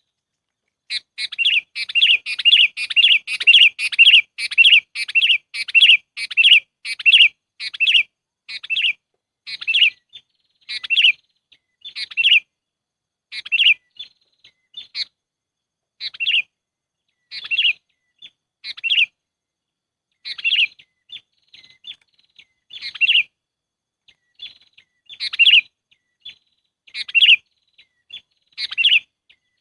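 Sooty-headed bulbul (kutilang) calling, short chirps repeated in a quick run of about two a second for the first several seconds, then spaced out to one every second or two. It is a bird-trapping lure recording.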